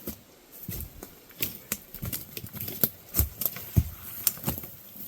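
Irregular knocks and clicks of a log being pushed and handled by hand, wood bumping and scraping.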